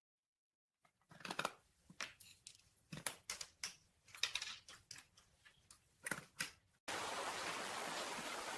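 Faint, irregular light clicks and taps, a few a second. Near the end they give way abruptly to a steady background hiss.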